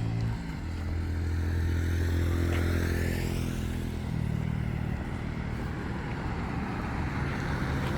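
A motor vehicle's engine running steadily, louder in the first few seconds, its pitch shifting about four seconds in.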